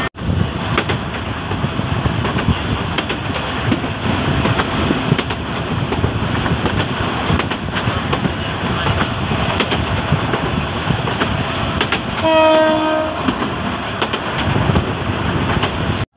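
Passenger train carriage running along the track, a steady rumble with many small knocks and rattles, heard from an open carriage window. About twelve seconds in, a short horn blast sounds for under a second.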